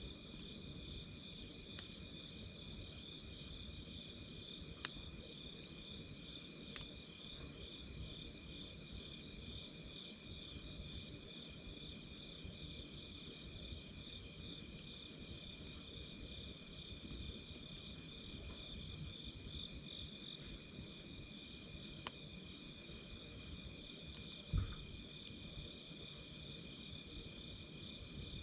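Campfire crackling, with a few sharp pops and one deeper, louder pop near the end, over a steady chirping insect chorus.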